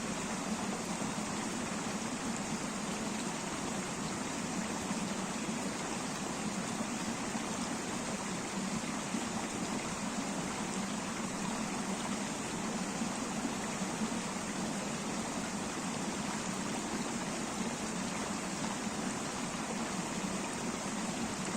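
A river rushing over rocks: steady, unbroken running water.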